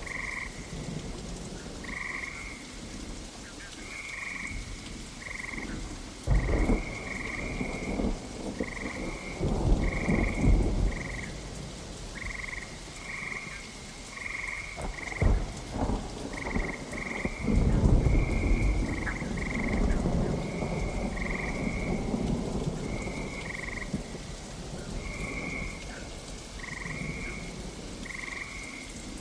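Steady rain with several low thunder rumbles, the loudest in the middle stretch, while frogs call throughout in short, repeated croaks.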